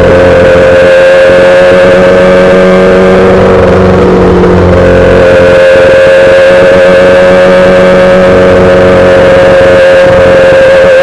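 2008 Yamaha R6 inline-four running under way through a full SC-Project exhaust, at a steady, high pitch. The pitch dips briefly about four seconds in, then holds steady again.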